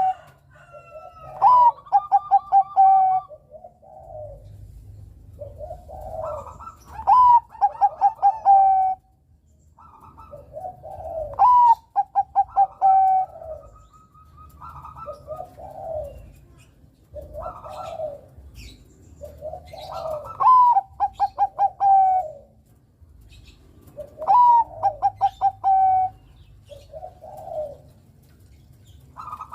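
Bangkok-type zebra dove (perkutut) singing persistently: about nine cooing phrases, each a quick stutter of short notes, many ending in a held coo, with short pauses between them.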